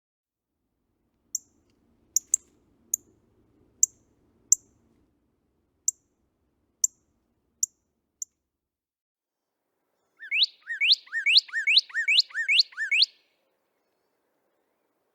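Northern cardinal: a series of sharp, high chip notes at uneven intervals, then about ten seconds in a fast three-second run of repeated slurred whistles.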